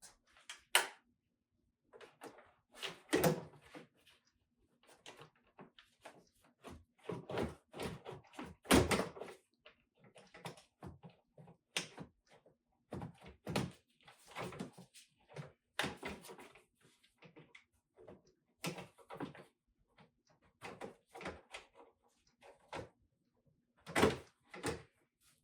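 Irregular clicks, knocks and thuds at uneven intervals, the loudest about three, nine and twenty-four seconds in, over a faint steady hum.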